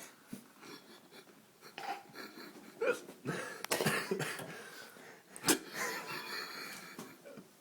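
A few sharp knocks, the loudest about five and a half seconds in, among breathy vocal sounds.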